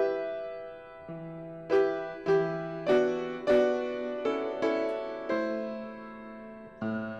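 Piano playing slow chords and single notes, each struck and left to ring and fade before the next.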